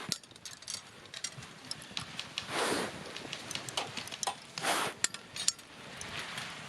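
Wood campfire crackling, with scattered sharp snaps and pops. Two short, louder hissing rushes come about two and a half and four and a half seconds in.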